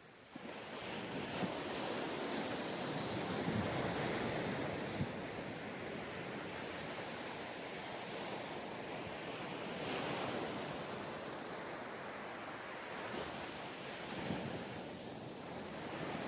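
Ocean surf washing onto a sandy beach: a steady rush of breaking waves that rises a moment in and swells and eases every few seconds.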